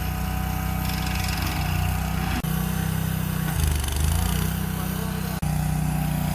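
Stump grinder engine running steadily as it grinds, with a grinding hiss over the engine note. About halfway through, the engine speed sags briefly and recovers, as the engine loads up in the cut.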